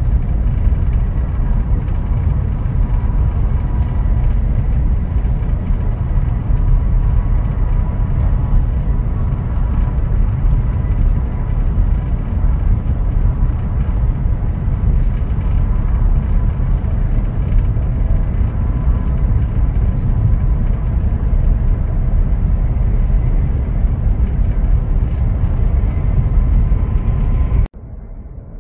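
Steady running rumble of a high-speed train at speed, heard inside the passenger car, with a faint steady whine over it. Near the end it drops suddenly to a much quieter, muffled rumble.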